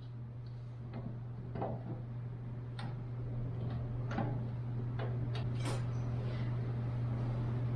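A dozen or so scattered light clicks and knocks, irregularly spaced, over a steady low hum.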